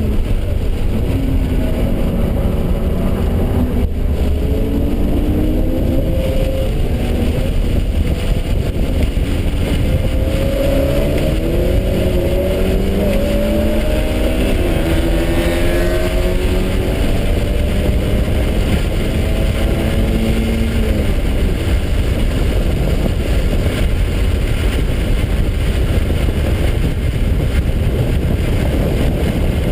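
In-car sound of a BMW 3 Series driven hard on a racetrack. Over the first two-thirds the engine pitch repeatedly climbs and drops with throttle and gear changes. After that the sound is mostly a steady, loud rush of wind and road noise.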